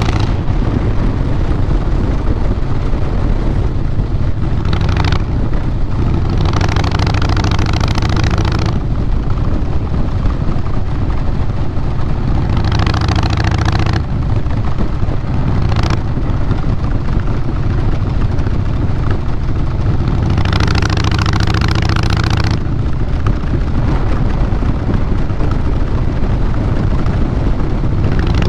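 2012 Harley-Davidson Fat Boy Lo's fuel-injected Twin Cam 96B V-twin running through a Vance & Hines Big Radius 2-into-2 exhaust, a steady low exhaust note. A hissing noise rises over it several times for a second or two.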